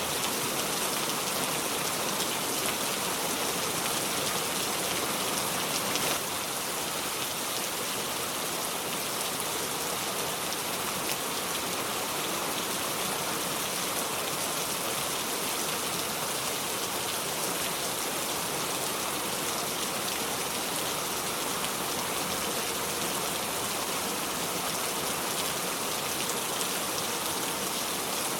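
Steady heavy rain falling, an even hiss with fine pattering of drops and no thunder; the level dips slightly about six seconds in and then holds steady.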